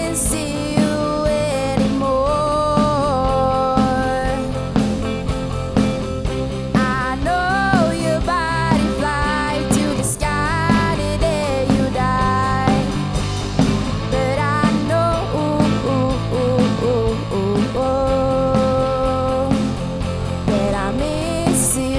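Teenage rock band playing live: singing over guitars, bass guitar and a drum kit, with cymbal crashes near the start, about halfway through and near the end.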